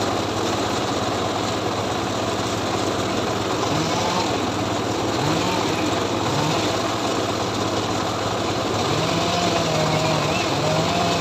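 Homemade engine-driven srekel log saw running steadily while sawing teak, a constant machine drone with a low engine hum that wavers slightly in pitch.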